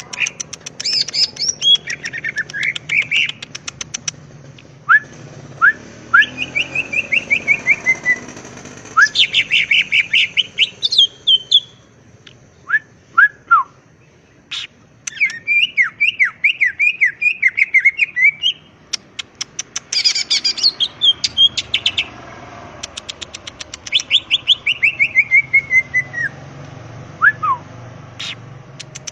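Cucak ijo (green leafbird) singing in full 'gacor' song: phrases of quick falling whistled notes alternate with fast rattling runs of dry ticks and short high chirps, with brief pauses between phrases.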